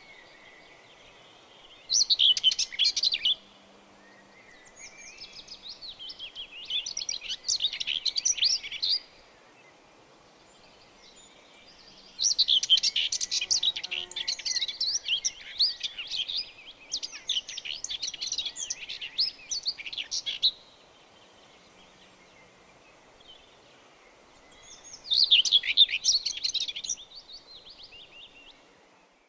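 Birds chirping: bouts of rapid, high twittering chirps lasting from one to several seconds, separated by pauses of a few seconds.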